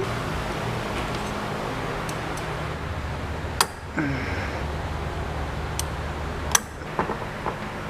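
A few sharp clicks and knocks of hand tools working on a car's radiator hose, over a steady low hum. One comes about halfway through and three more follow close together near the end.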